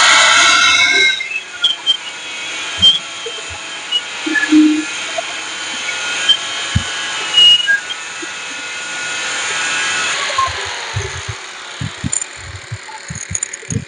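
Electric power tool running at full speed, then shutting off about a second in, followed by a quieter steady hiss broken by scattered knocks and clinks of metalwork.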